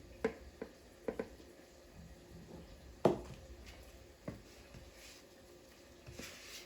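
Several light knocks and clicks of objects being handled, sharp and short, the loudest about three seconds in, with a brief soft rustle near the end.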